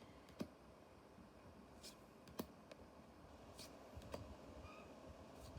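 Faint, scattered clicks and taps of trading cards being handled and flicked through, a few seconds apart, over quiet room tone.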